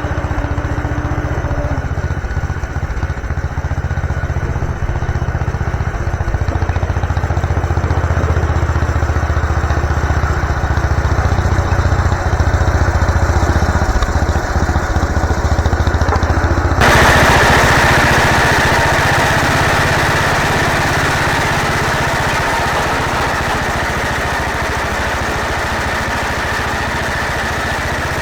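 MTD garden tractor's small engine running steadily. About seventeen seconds in, the sound changes abruptly and becomes brighter and noisier while the engine keeps running.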